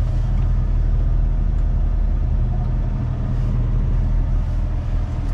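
Big truck's diesel engine running steadily, a low even drone.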